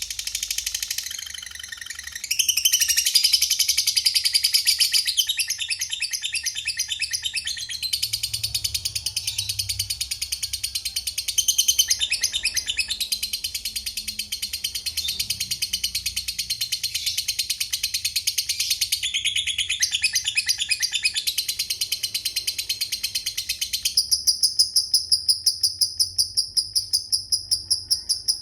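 Lovebird's long, rapid, high-pitched chattering song (the 'ngekek panjang'), running almost unbroken for many seconds. About 24 seconds in it gives way to an even, fast pulsing at a higher pitch.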